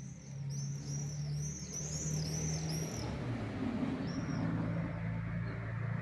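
A small bird chirping rapidly, about three high chirps a second for some three seconds, then once more near the end, over a steady low hum.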